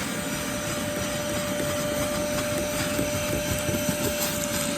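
Vacuum cleaner running steadily with a constant whine, its nozzle scrubbing over car carpet with irregular scratching as it works at caked-in debris.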